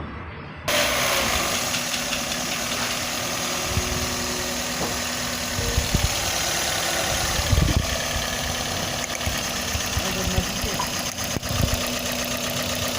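Toyota car engine running at idle, a steady hum that cuts in sharply about a second in, with a few low thumps along the way.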